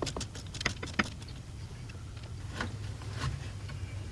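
Scattered sharp clicks and knocks of hand tools and a hose clamp on metal as a stuck lower radiator hose is worked loose, over a steady low hum.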